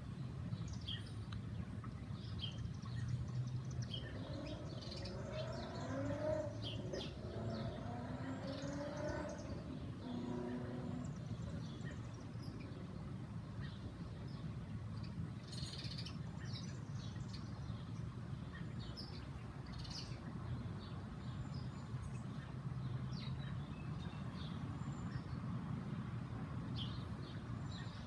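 Songbirds chirping and tweeting, short high calls scattered throughout, over a steady low hum of background noise.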